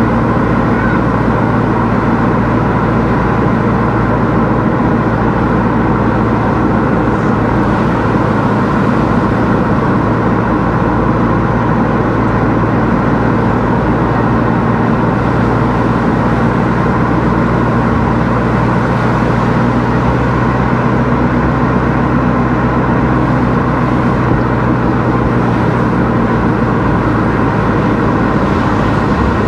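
Car driving at a steady speed: a constant engine hum under road and tyre noise.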